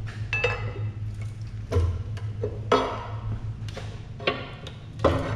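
Metal tools knocking and prying at an engine's timing cover that is held on with sealant. The sound is a string of irregular sharp clinks and knocks, some ringing briefly, over a steady low hum.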